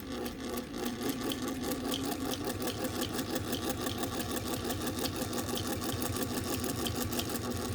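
Singer 201 sewing machine, driven by its potted motor, sewing steadily through three layers of leather: an even motor hum with a rapid, regular stitch beat.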